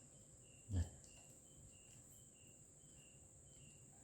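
Faint insects chirping: a short high chirp repeating about every half second over a steady high-pitched buzz.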